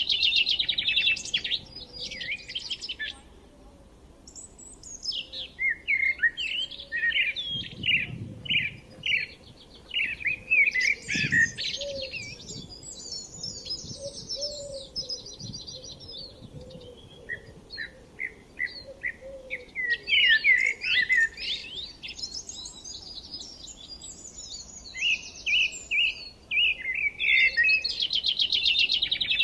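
Several songbirds chirping and singing in quick, overlapping phrases and trills, with a brief lull a few seconds in.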